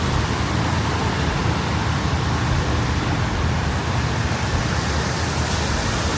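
Steady wet-street ambience: an even hiss of water with a low traffic rumble underneath.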